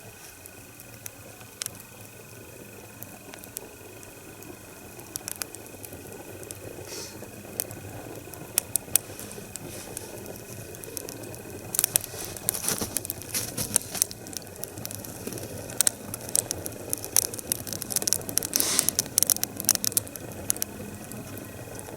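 Wood fire crackling and popping inside a split log that stands upright and is lit from within. The pops come thicker and louder over the second half as the fire takes hold along the log, burning hard in the strong draft that the upright split creates.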